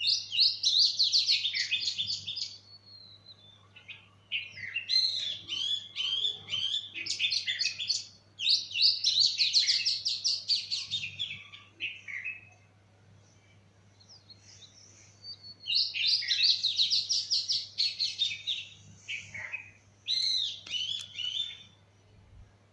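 A songbird singing in bouts of rapid, varied, high, sweet notes, several seconds long, with short pauses between them.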